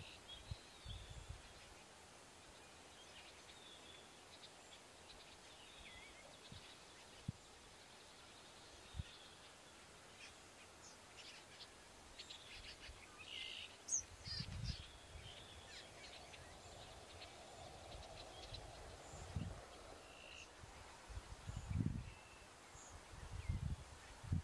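Quiet outdoor ambience with distant birds calling and chirping on and off, busiest about halfway through. A few brief low rumbles come and go in the second half.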